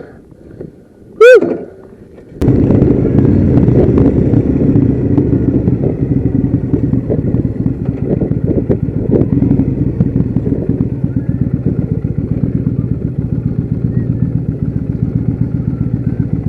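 A short, loud, rising high-pitched call about a second in, then a Kawasaki Vulcan motorcycle engine cuts in abruptly and keeps running steadily.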